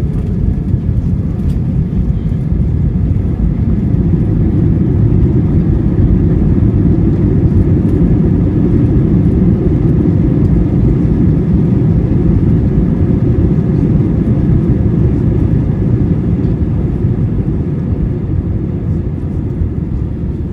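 Jet airliner cabin noise during landing: a loud, steady low rumble of engines and airflow. It builds over the first few seconds and eases slightly near the end.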